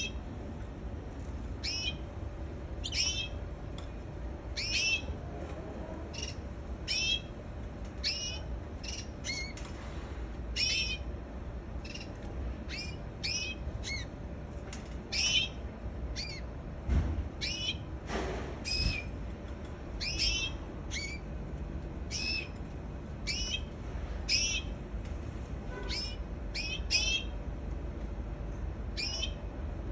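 Pet canary giving short, high calls that slide downward in pitch, one every second or two, over a steady low hum.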